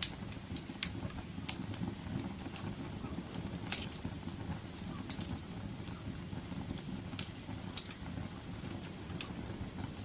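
Wood fire burning: a steady low rumble with irregular sharp crackles and pops, about a dozen, the loudest right at the start and near four seconds in.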